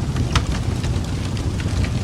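Wood fire crackling: a steady low rumble of flames with frequent small snaps and pops, one sharper pop about a third of a second in.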